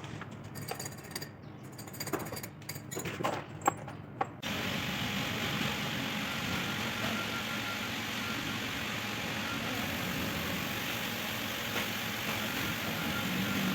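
Scattered mechanical clicks and knocks for about four seconds, then a sudden switch to a steady rushing background noise.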